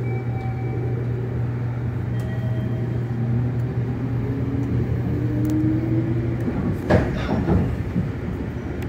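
Interior of a JR Kyushu 787-series electric train pulling out of the station: a steady low hum with a faint motor tone rising as it gathers speed. From about seven seconds in, the wheels knock over the track a few times.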